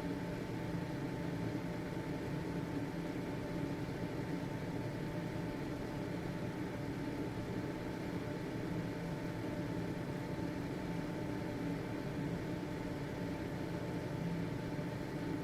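Household ventilation fan running steadily: an even motor hum and airflow rush with a thin, steady whine, unchanging throughout.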